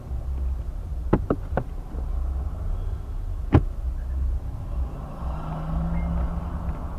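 Car engine and road rumble, steady and low. There are three quick sharp knocks a little after a second in, and a single louder knock about three and a half seconds in.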